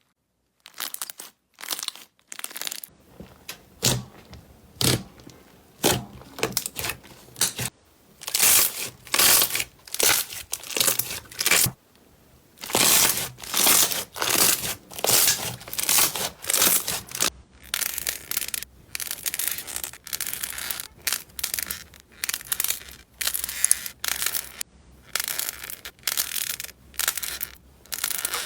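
Slime being pressed and squeezed by hand: a string of short, noisy squelching strokes, about one or two a second, turning into quicker runs of small clicks in the second half.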